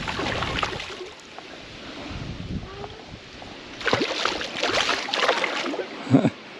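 Hooked musky thrashing and splashing at the water's surface beside the boat, in two spells of splashing: a short one at the start and a longer one from about four seconds in.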